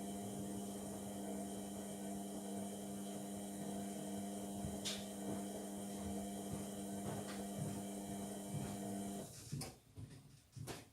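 Indesit MTWC71252WUK washing machine in its wash phase: the drum motor runs with a steady hum while the drum tumbles the load. The hum cuts off suddenly about nine seconds in as the drum stops, leaving only a few faint knocks.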